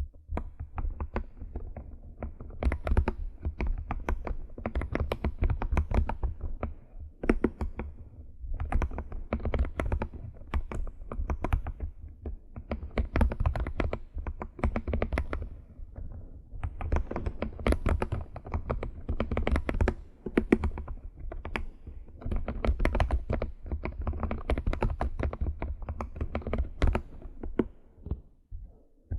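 Computer keyboard being typed on in quick runs of key clicks, broken by short pauses.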